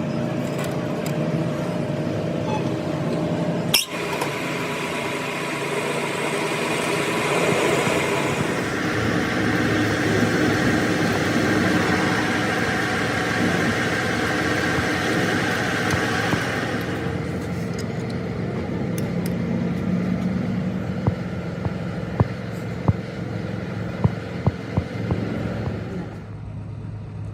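Metal lathe running with a steady mechanical hum and whine; its tone shifts twice. A sharp knock comes about four seconds in, and a run of sharp metallic clicks comes near the end.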